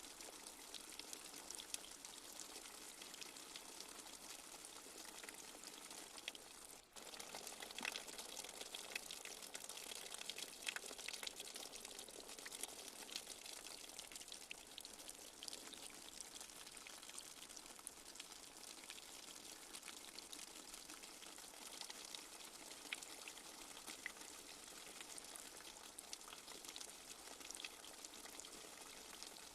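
Light steady rain, an even hiss sprinkled with many small drip and drop ticks. It drops out for a moment about seven seconds in, then returns with more distinct drops for a few seconds.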